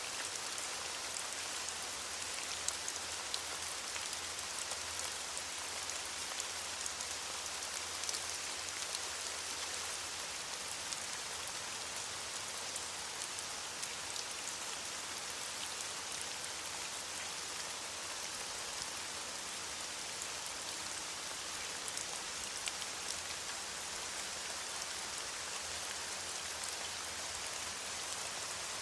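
Steady rain falling on leaves: a dense, even hiss peppered with many small drop ticks.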